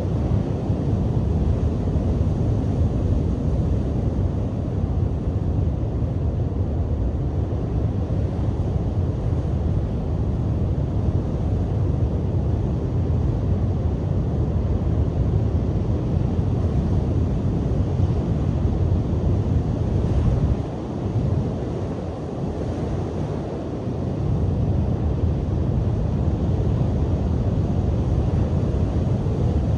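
Wind buffeting the microphone as a loud, steady low rumble, over waves breaking on the shore. The rumble drops for a few seconds about two-thirds of the way through, then returns.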